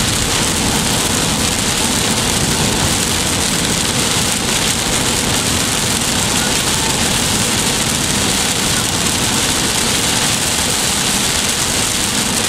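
Heavy rain hitting a car's windscreen, heard from inside the moving car as a loud, steady hiss, with the car's road noise underneath.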